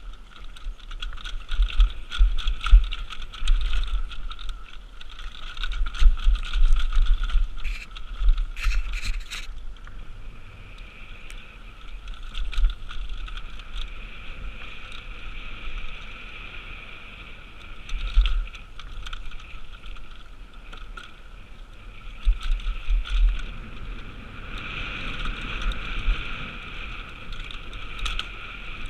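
Mountain bike descending a rough trail: repeated thumps and rattles over bumps, with wind buffeting the microphone, over a steady high buzz.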